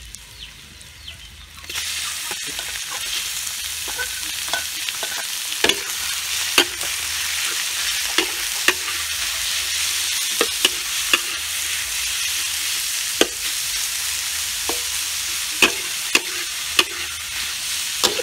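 Chopped chicken gizzards frying in hot oil in a wok with shallots and garlic. A steady sizzle jumps suddenly louder about two seconds in as the raw meat hits the oil, and a metal spatula clicks and scrapes against the wok as it is stirred.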